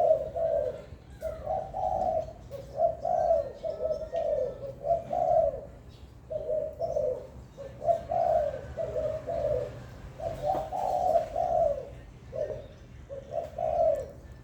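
Spotted dove cooing over and over in short, repeated phrases with brief pauses between them.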